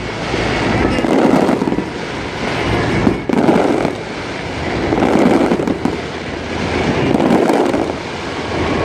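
Fireworks display: a continuous barrage of bangs and crackling, swelling in dense clusters about every two seconds, with one sharp bang about three seconds in.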